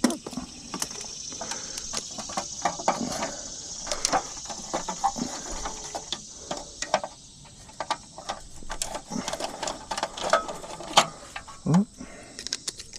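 Irregular metallic clicks and light knocks of hand tools working on an air handler's sheet-metal cabinet as its wiring is taken loose, over a steady faint high hiss.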